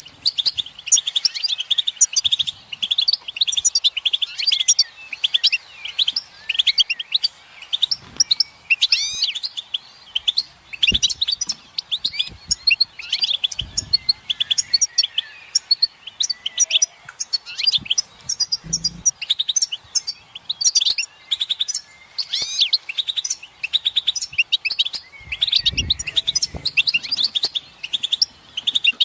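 European goldfinches calling together in a dense, continuous stream of rapid chirps and twitters. These are the group calls used to stir a silent male goldfinch into singing. A few faint low thumps come through now and then.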